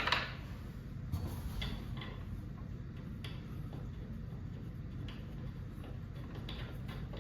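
Light metallic clicks and taps of a hand tool on the set screws as they are tightened back into a garage door torsion spring's winding cone. A sharper clink with a short ring comes at the very start, then a few scattered ticks over a low steady hum.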